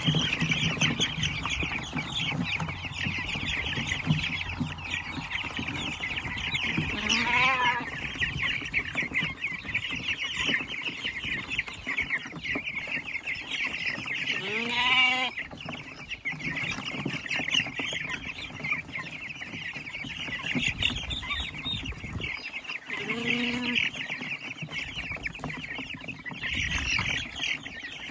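A flock of about fifty three-week-old Cornish Cross meat chicks peeping continuously in a dense chorus. A few louder, longer calls from another animal rise above it, about 7, 15 and 23 seconds in.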